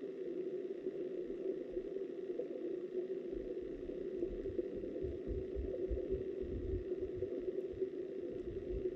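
Steady, muffled rush of river water heard through an underwater camera, with irregular low buffeting rumbles setting in about three seconds in.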